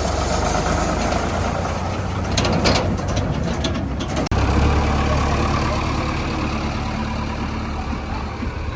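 Heavy diesel machinery engine running steadily, with a flurry of sharp clicks and clatter from about two and a half to four seconds in. The sound drops out for an instant just after four seconds, then the engine carries on.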